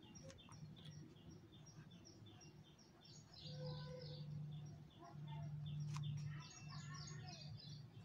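Faint birds chirping in the background, a steady run of short, high, downward chirps. A low steady hum comes in about three and a half seconds in and fades near the end.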